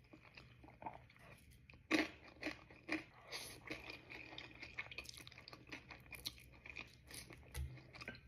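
Close-miked chewing and crunching of Buldak noodles topped with crushed Takis: a steady run of crisp crunches, the loudest about two seconds in.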